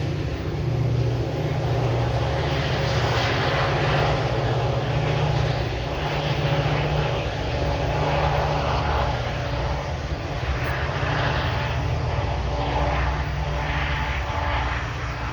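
Train's diesel engine running as a steady low drone, with a rushing, wavering noise over it and no break.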